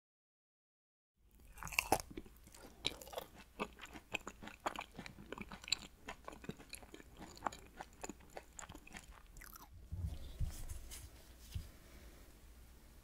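Chewing a sugar-dusted fried donut filled with corn custard cream, with many small crunchy crackles. It starts about a second in and turns softer and deeper in the last few seconds.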